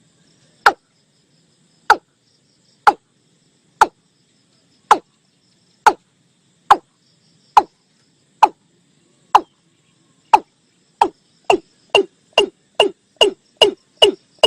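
Male watercock calling: a series of short, hollow notes, each dropping in pitch. The notes come about once a second, then quicken to two or three a second over the last few seconds.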